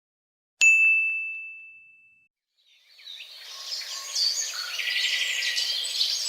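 A single bright bell ding that rings out and fades over about a second and a half. Then a chorus of birds chirping and singing for about four seconds.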